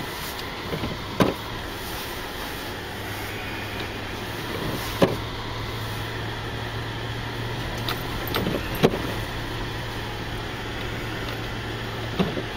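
Car running on a snowy road, heard from inside the cabin: a steady low hum under even road noise, with a few short, sharp knocks.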